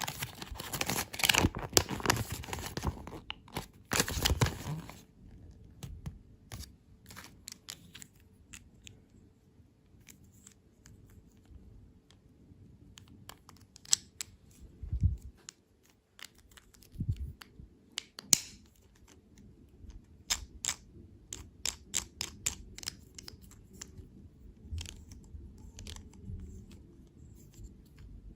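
Candy packaging being torn open and crinkled close to the microphone. A dense rustle lasts about five seconds, then scattered small clicks and crackles follow.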